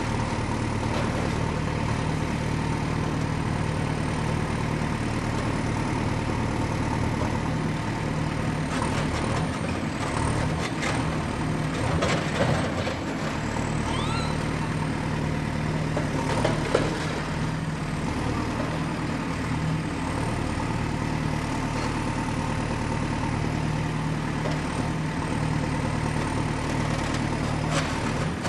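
Diesel excavator engine running steadily under work, with a cluster of short metallic clanks and knocks between about 9 and 17 seconds in, the loudest near 12 and 17 seconds.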